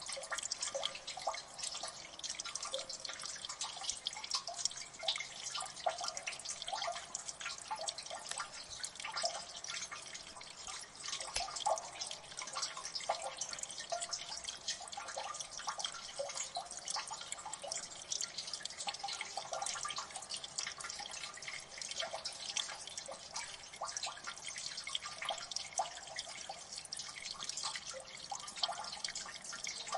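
Water dripping in a gully: many irregular drops, several a second, plinking over a steady watery hiss.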